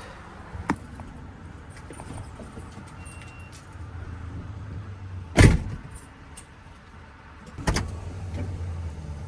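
Two heavy thumps about two seconds apart, the first the loudest, over a low steady vehicle hum, with keys jangling and a sharp click near the start.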